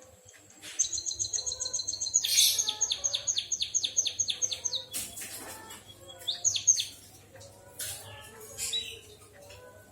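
Emprit kaji (white-headed munia) singing a canary-like song: a fast trill of repeated high notes, about seven a second, lasting about four seconds, followed by shorter bursts of sharp chirps.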